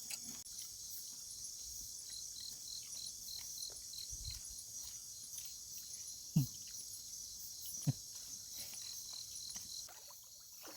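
Night insects, crickets, chirping in a steady high-pitched chorus with a quick regular pulse. Two short low thumps sound partway through.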